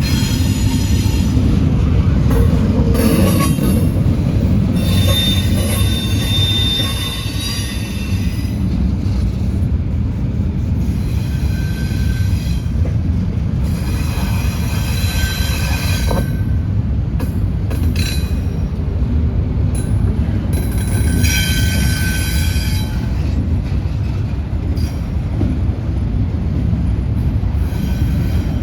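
Freight train rolling past with a loud, steady rumble, and high-pitched wheel squeal that comes and goes about four times.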